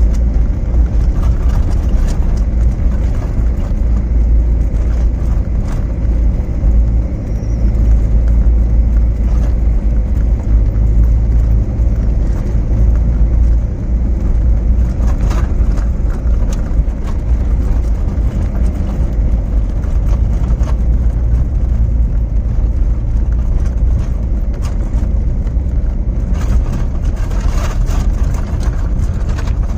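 Car driving steadily along a winter road: a continuous low rumble of engine and tyres, with a few faint knocks from bumps.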